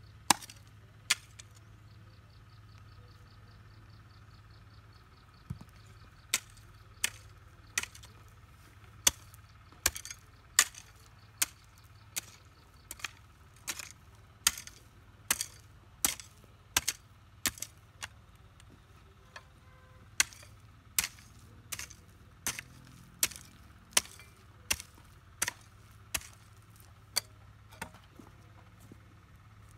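Repeated sharp chopping strokes, about one to two a second with a pause early on: a blade cutting grass stalks into planting cuttings.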